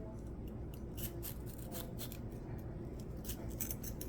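Knife cutting an orange bell pepper: a run of light, crisp, irregular cuts.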